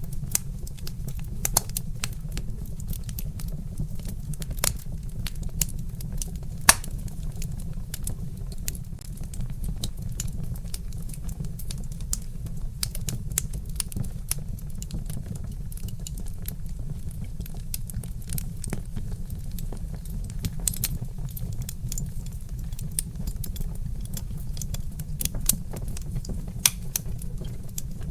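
Log fire crackling with irregular sharp pops and snaps, a few louder ones standing out, over a steady low rumble.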